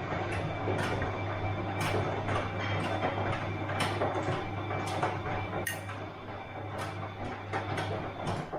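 Bosch washing machine running: a steady low hum with frequent, irregular clicks and knocks.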